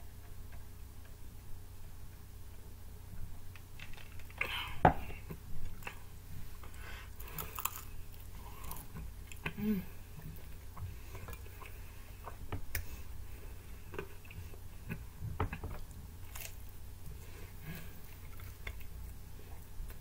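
A person chewing and biting pizza close to the microphone: scattered wet mouth clicks and smacks, the sharpest about five seconds in, over a low steady hum.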